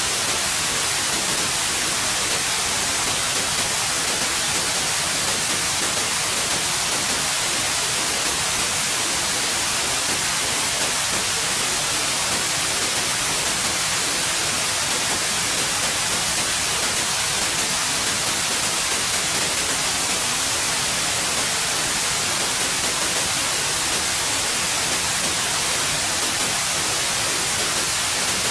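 Steady, unbroken white noise: an even hiss, strongest in the high frequencies, that does not change.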